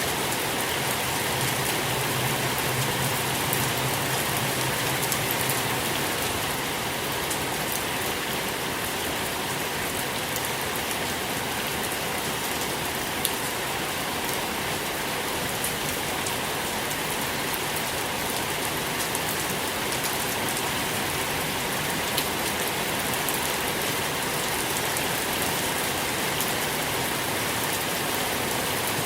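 Steady rain falling on a surface, an even wash of noise with fine scattered drop ticks.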